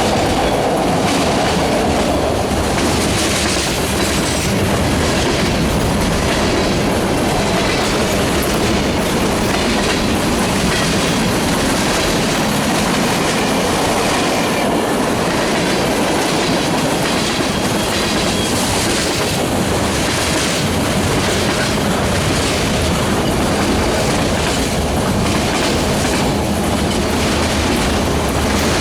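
Freight train cars rolling past, their wheels clacking steadily and repeatedly over the rail joints.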